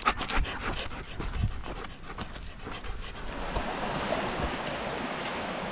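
A dog panting and whimpering over quick footfalls and paw steps, giving way about three seconds in to a steady rushing noise.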